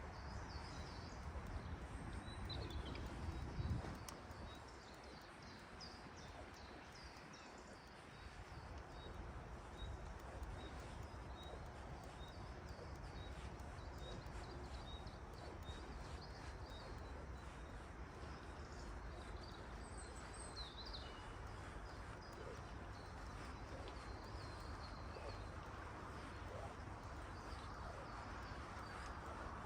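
Several songbirds chirping and singing, with one bird repeating a short high note at an even pace for a stretch, over a steady low rumble. A single loud knock about three and a half seconds in.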